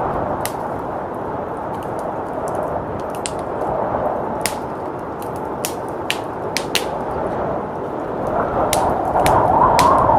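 Wood fire crackling with scattered sharp pops over a steady rush of blizzard wind, which swells in a louder gust near the end.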